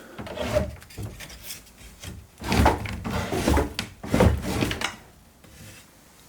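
Old wood creaking and rubbing in three rough bursts about a second long each, with smaller scrapes between them; it fades out near the end.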